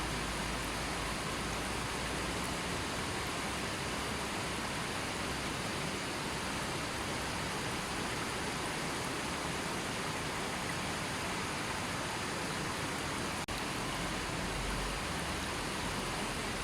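Gently flowing river stream, its water rushing as a steady, even hiss, with a momentary dip in level about thirteen seconds in.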